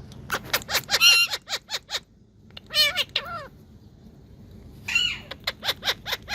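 Ringneck parakeets chattering and calling in three bursts of rapid, high-pitched notes.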